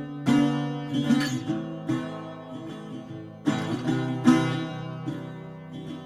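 Background music: acoustic guitar, plucked notes, with no singing.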